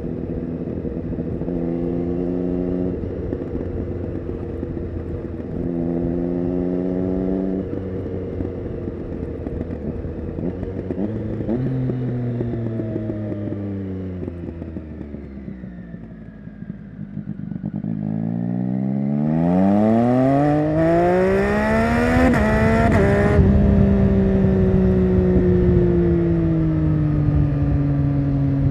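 Triumph Street Triple 675 Rx's inline-three engine through an SC-Project Conic exhaust, ridden under way. Revs hold fairly steady at first, then fall away as the bike slows, before climbing steeply under hard acceleration. About two-thirds of the way through the pitch drops suddenly at an upshift, then holds and sags slowly.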